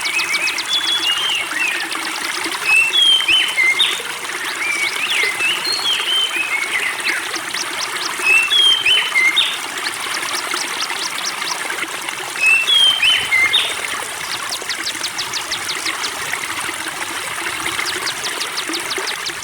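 Spring water trickling steadily, with a songbird repeatedly singing short whistled phrases mixed with quick rattling trills, a phrase every few seconds.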